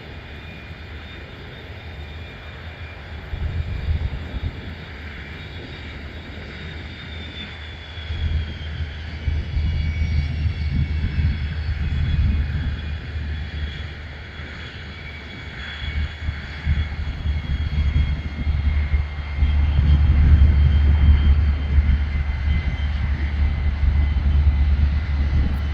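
Boeing 717 jet landing, its two Rolls-Royce BR715 turbofans giving a steady high whine that slides down in pitch partway through. Under the whine a gusty low rumble swells several times and is loudest near the end.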